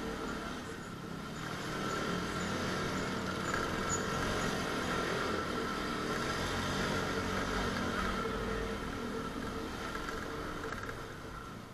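Motorcycle engine running steadily on the road, mixed with road noise.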